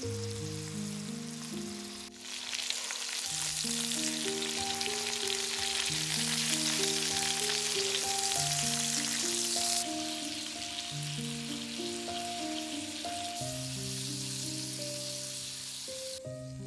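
Chicken breasts sizzling as they fry in butter in a pan. The sizzle comes in strongly about two seconds in, eases off around ten seconds and cuts off just before the end. Soft background music with sustained notes plays throughout.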